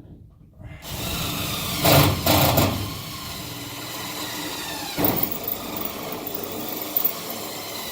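Power drill running steadily, boring holes through the school bus's metal, starting about a second in with louder surges around two and five seconds in.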